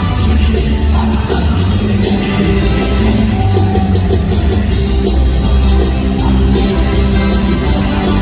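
Live praise-worship band playing loud, with a steady drum beat, electric guitar and heavy bass, and some singing.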